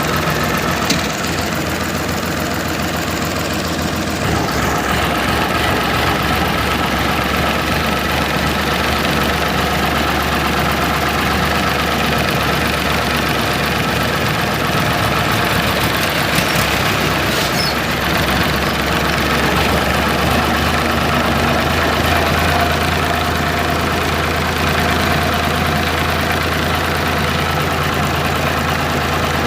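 Tractor engine running steadily, its note filling out and growing slightly louder about four seconds in.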